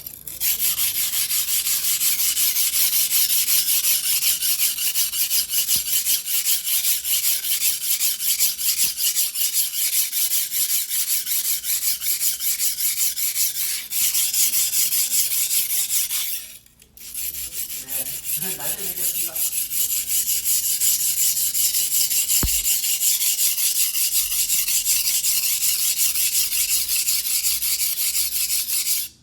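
Single-bevel fuguhiki sashimi knife of white steel being ground by hand on a wet whetstone: fast, even back-and-forth scraping strokes, with one short break a little past halfway.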